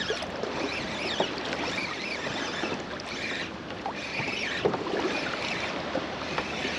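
Water lapping and splashing around a kayak, a steady wash with scattered small clicks and knocks.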